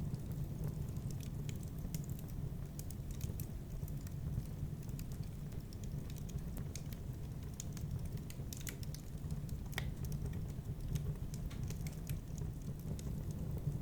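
Wood fire crackling in a fireplace: scattered small pops and snaps over a low, steady rumble, with one sharper pop about ten seconds in.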